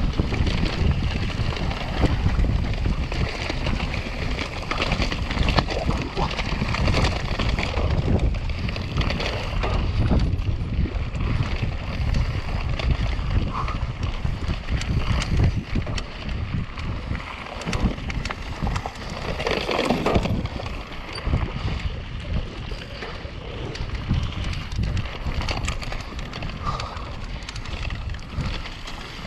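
Wind rumbling on the microphone of a mountain bike ridden fast downhill, over constant tyre noise on the trail and many quick clicks and rattles from the bike.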